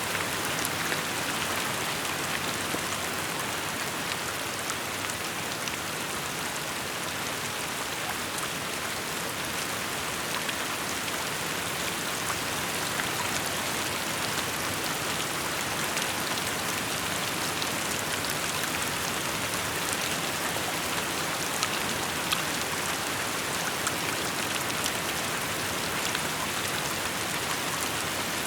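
Steady rain falling on surfaces: a dense, even hiss of rainfall with the sharp ticks of individual drops scattered through it.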